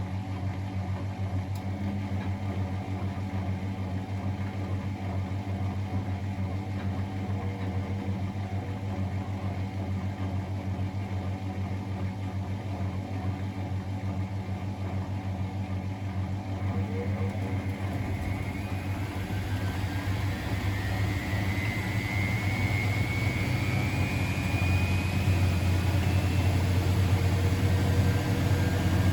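Miele Novotronic W921 washing machine running with a steady low motor hum. From about two-thirds in, a whine rises in pitch and the sound grows louder as the motor speeds up the drum.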